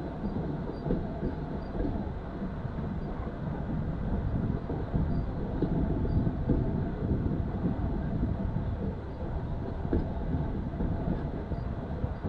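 Heritage railway train running along the track: a steady low rumble with frequent irregular knocks and rattles.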